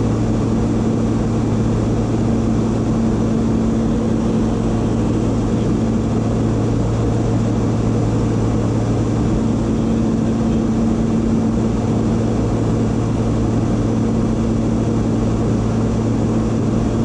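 Private jet in flight: an even, steady rushing drone with a low hum underneath, unchanging throughout.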